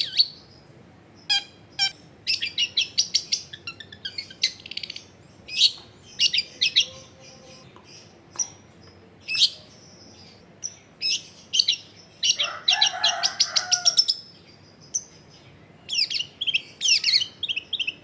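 Long-tailed shrike (cendet) singing in full voice: bursts of rapid, high chattering chirps and trills with short pauses between them. A longer, denser, harsher phrase with a lower component comes about twelve seconds in.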